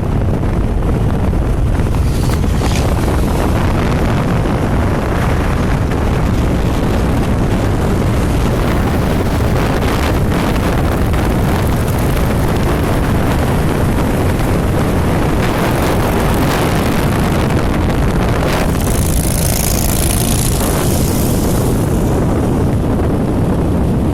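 Volkswagen Gol G6 driving, its engine and road noise mixed with heavy wind rumble on the microphone. A burst of hiss comes in about nineteen seconds in and lasts around two seconds.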